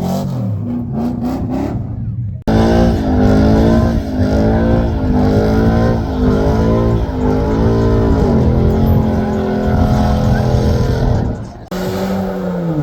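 Truck engine revving hard, its pitch rising and falling about once a second, as if the driver keeps shifting. The sound breaks off abruptly about two and a half seconds in and again near the end.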